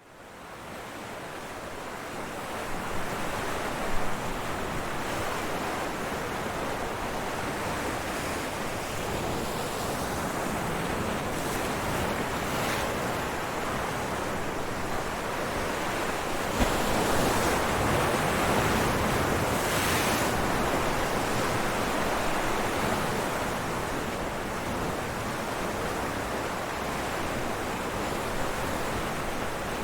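Ocean waves breaking on rocks: a continuous rushing wash of surf that fades up over the first couple of seconds and swells louder for a few seconds past the middle.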